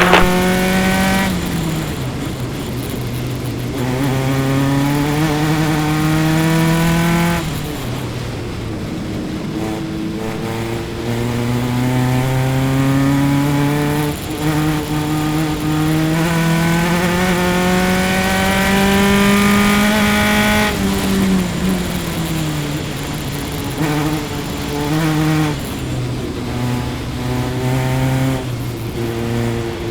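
Single-seater race car engine heard onboard, running hard under racing load. Its pitch climbs for long stretches under acceleration and falls sharply at lifts and shifts, about a second, seven seconds and twenty seconds in. Near the end come quick rises and falls in pitch through the corners.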